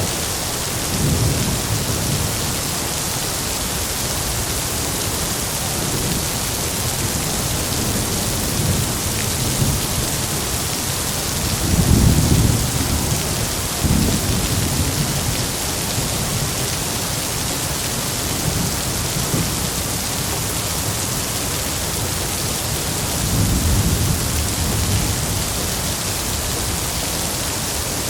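Heavy rain falling steadily with a constant hiss, with rolls of thunder rumbling low at intervals: a short one about a second in, the loudest around the middle, and another near the end.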